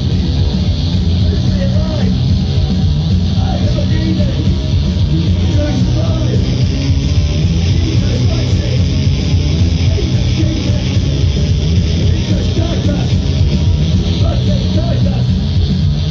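Punk band playing live: loud distorted electric guitars and bass over drums, with a steady heavy low end and cymbal hiss.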